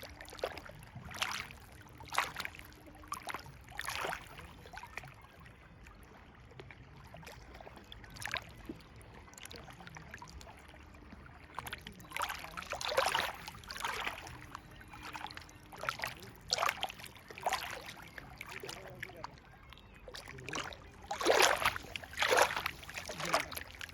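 River water flowing, a steady low rush broken by irregular splashes and gurgles, with louder clusters of splashing about halfway through and again near the end.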